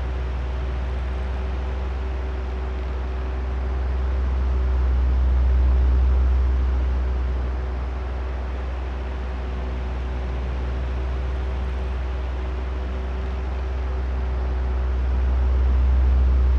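Oscillating electric fan running: a steady airy drone over a low motor hum. It swells louder twice, about ten seconds apart, as the fan head sweeps back and forth.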